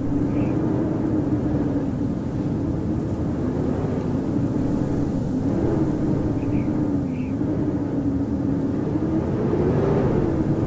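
Blizzard wind howling steadily over a deep rushing noise, its moaning tone wavering slightly up and down. A faint pair of short high chirps comes about six and a half seconds in.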